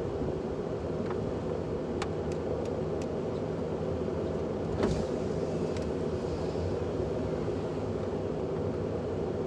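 Steady motor-vehicle running noise, a low even hum and rumble, with a few light clicks and a single louder knock about halfway through.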